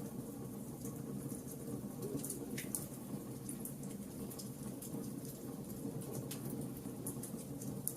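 Wood fire burning in a fireplace: a steady low rumble of flames with scattered sharp crackles and pops, two of them louder, a couple of seconds in and near the end.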